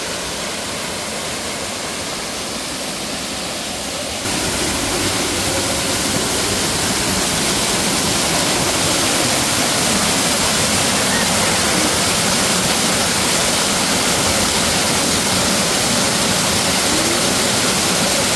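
Waterfall rushing water, a steady dense hiss that gets louder and brighter about four seconds in.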